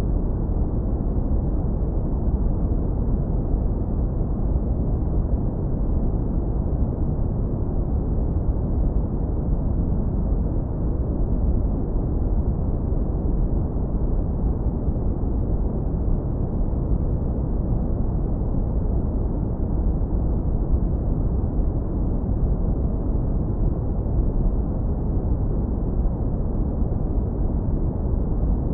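Continuous deep brown noise, low-pass filtered so that only a warm, steady rumble remains, with nothing in the upper range.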